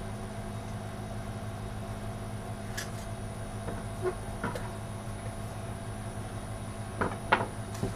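A few light clicks and knocks of computer parts and cables being handled, the sharpest pair near the end, over a steady low hum.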